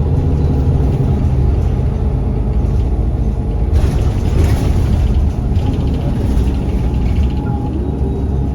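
City bus engine running with a steady low rumble, heard from inside the bus while riding, with a brief hiss about four seconds in.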